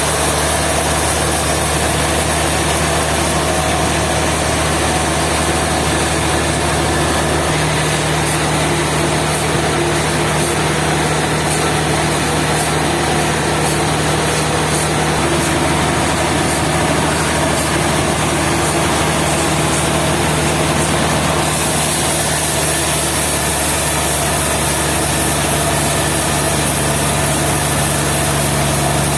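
Sawmill engine running steadily at a constant speed, with a hiss in the high range that grows brighter about two-thirds of the way through.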